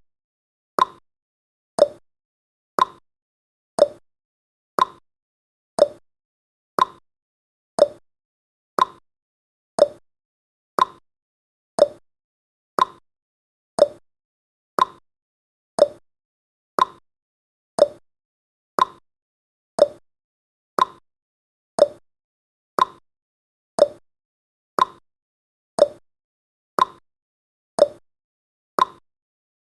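Clock tick-tock sound effect, one sharp tick each second, alternating a higher and a lower tick and marking off the seconds of a countdown timer.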